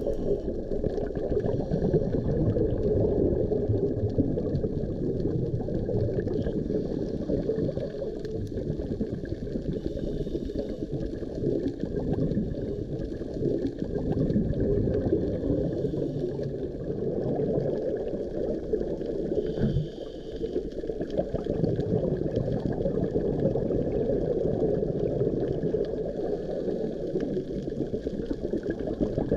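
Muffled underwater water noise with gurgling, as heard through a camera's underwater housing on a dive.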